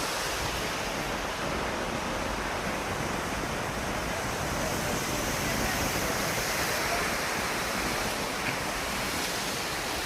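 Steady rush of fast-flowing river water, an even unbroken roar of noise.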